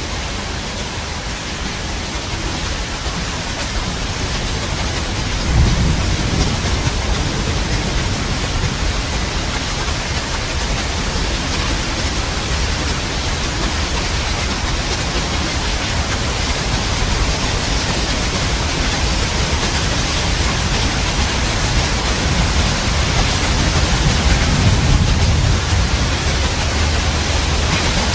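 Steady rain, with rolls of thunder: one rumble comes in suddenly about a fifth of the way in, and a longer one swells near the end.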